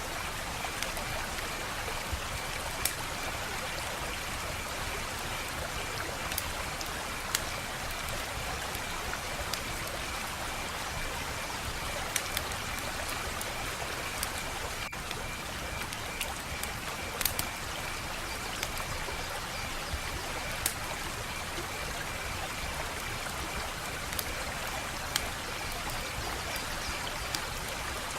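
Wood fire crackling: a steady hiss with sharp, irregular pops and snaps every second or so, and a faint steady high trill behind it.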